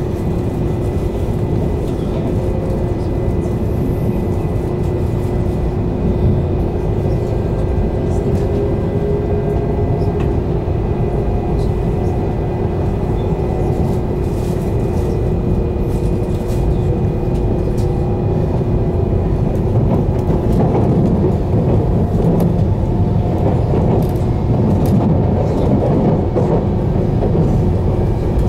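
Running noise inside the cabin of an E2 series 1000 Shinkansen pulling out of a station: a dense, steady rumble from the running gear with a couple of steady hum tones, growing slightly louder as the train picks up speed.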